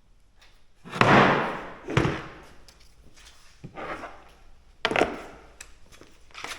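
Several knocks and thuds of wooden workpieces and tools being handled on a workbench during a glue-up. The loudest is about a second in, followed by a short scrape; the others come at irregular intervals.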